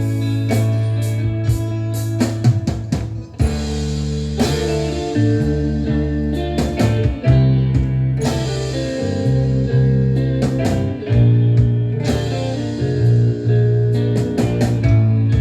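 Instrumental passage of a 1970s rock band recording: guitar playing over bass guitar and a drum kit with cymbal hits, without vocals.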